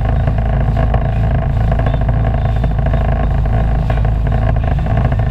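Sea-Doo personal watercraft engine running steadily under way, a loud, even drone with no change in speed.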